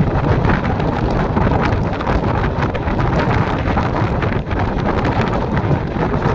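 Strong wind buffeting the microphone: a loud, continuous rumbling roar with irregular gusty thumps.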